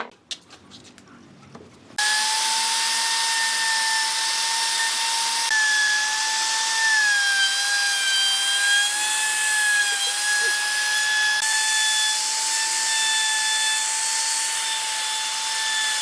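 An electric power tool starts suddenly about two seconds in and runs steadily with a high whine, its pitch sagging slightly at times.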